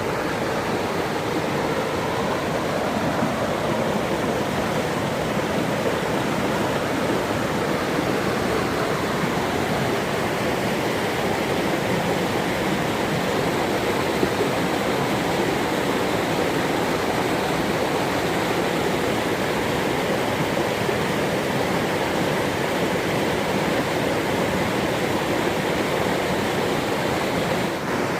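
Rushing water of a waterfall, a steady even rush with no breaks.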